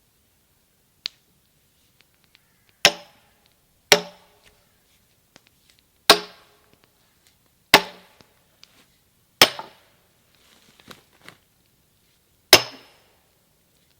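Sledgehammer driving a steel wedge into a chestnut log to split it into a fence stake: six heavy strikes at uneven intervals, each with a short metallic ring.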